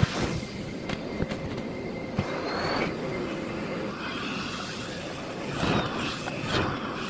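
Miele Blizzard CX1 bagless cylinder vacuum cleaner running, with a swelling rush of noise each time the floor head is pushed, and a few sharp clicks and knocks.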